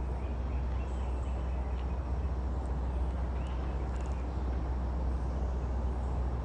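Outdoor ambience: a steady low rumble of wind on the microphone, with a few faint bird chirps.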